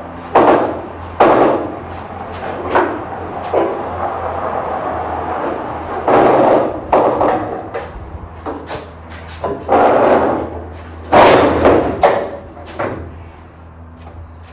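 A series of irregular thumps and knocks, some short and some dragging on for half a second or so, over a steady low hum.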